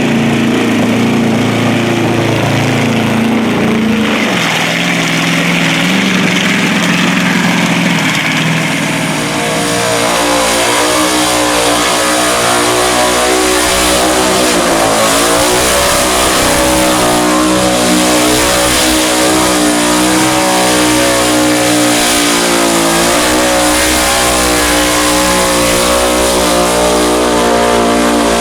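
Burnout car's engine revving hard and held at high revs, with a few brief dips in pitch, as it performs a burnout; it runs lower and more unevenly for the first several seconds before climbing and holding high.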